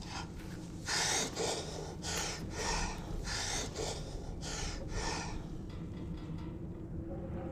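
A man breathing hard in a run of about seven short, sharp gasps, roughly two a second, that settles after about five seconds.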